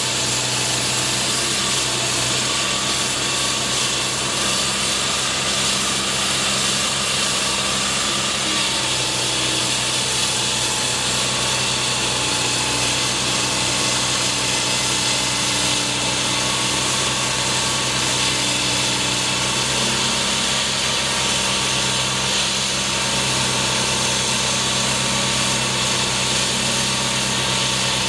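Continuous machine noise from engines or motors running, with steady hums that step up and down in pitch every few seconds over a broad hiss.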